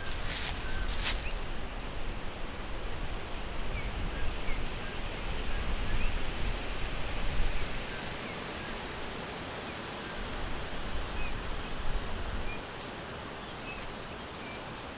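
Forest ambience: a steady rustling hiss of wind through foliage with a low rumble underneath that eases near the end. Faint, short songbird chirps come and go throughout. A few sharp rustles or crackles sound in the first second and again just before the end.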